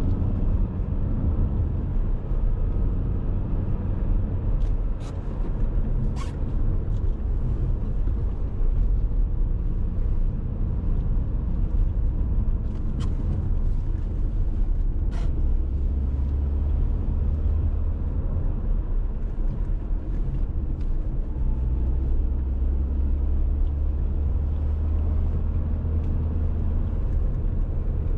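Dacia Duster 1.6 SCe being driven, its naturally aspirated four-cylinder petrol engine and tyres giving a steady low rumble. The rumble grows heavier about halfway through and again later on, and a few sharp clicks or knocks come through around a fifth and half of the way in.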